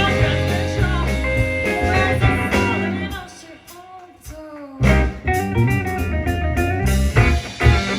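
Live band music with a bluesy groove of guitar, bass and singing. About three seconds in the bass and beat drop out, leaving a single gliding melody line; the full groove comes back nearly two seconds later.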